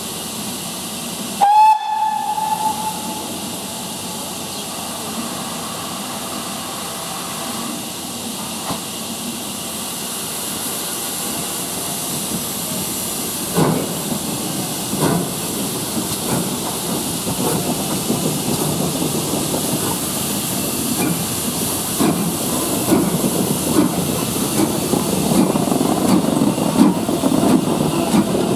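Steam locomotive giving a short whistle blast, then steam hissing steadily. From about halfway, slow exhaust chuffs begin and come quicker towards the end as the locomotive starts away.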